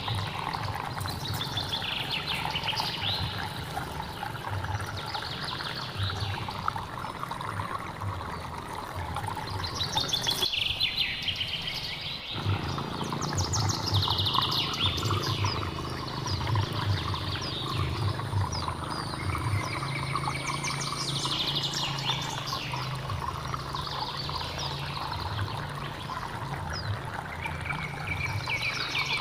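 Forest stream flowing steadily, with birds singing over it in short, repeated, falling phrases every few seconds. The water noise drops out for about two seconds near the middle.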